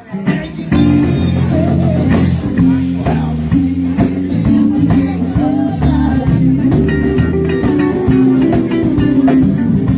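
Live blues-rock band playing, with electric guitar to the fore over bass and drums. The sound dips briefly at the very start, then the full band carries on steadily.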